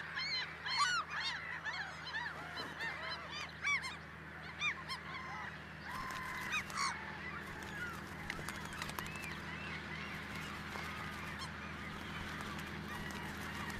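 A flock of gulls calling, many short cries that rise and fall in pitch, thick over the first half and thinning out after, above a steady low hum.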